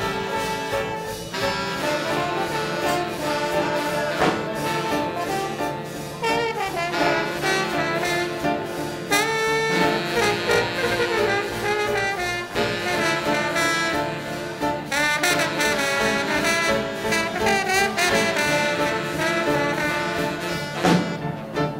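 Big band playing swing-era jazz live, with brass and saxophones.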